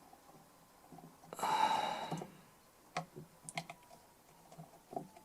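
Light clicks and taps of a small tool working inside a DI box, picking out leftover paper, with one short rushing noise about a second and a half in.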